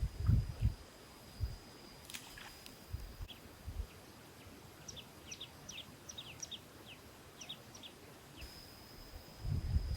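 A small bird chirping in a quick run of short, falling notes through the middle, over a steady high whine, with low thumps near the start and near the end.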